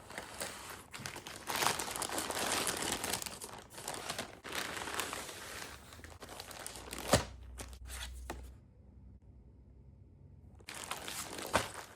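Packaging crinkling and rustling as it is handled and opened, with a sharp snap about seven seconds in. There is a short lull before the crinkling starts again near the end.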